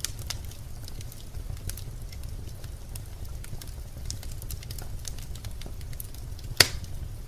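Birch logs burning in a fireplace: a steady low rumble of flame with scattered crackles, and one loud pop about six and a half seconds in.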